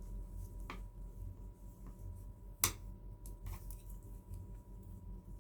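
Knitting needles clicking softly as stitches are worked, with one sharper click about two and a half seconds in, over a low steady hum.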